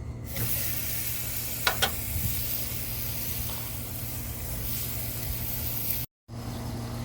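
Barbecue sauce sizzling on a hot grill as it is poured over chicken thighs: a loud, steady hiss that starts suddenly, with a couple of sharp clicks about two seconds in. The sizzle breaks off abruptly about six seconds in.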